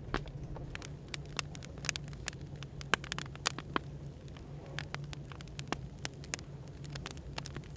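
Wood fire crackling, with many sharp, irregular pops and snaps over a steady low hum of background noise.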